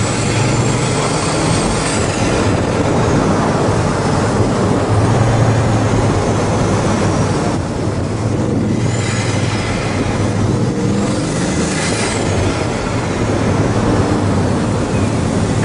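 Street traffic: vehicle engines running with a steady low hum and vehicles passing.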